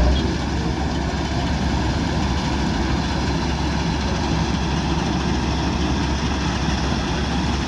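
Kubota DC-105X combine harvester running steadily: a constant low diesel engine drone with the machine's mechanical noise over it.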